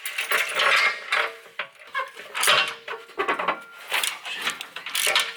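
Hand ratchet wrench working a muffler bolt loose under a Jeep: uneven runs of ratchet clicking strokes mixed with metal tool clinks.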